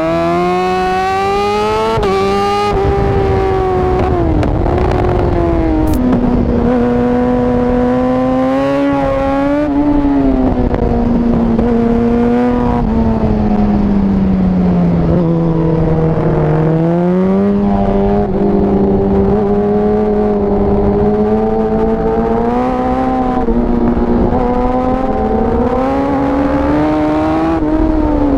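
Yamaha R6 sport bike's inline-four engine recorded onboard at full throttle on track. The engine note climbs and falls again and again as the rider accelerates, shifts gears and brakes for corners.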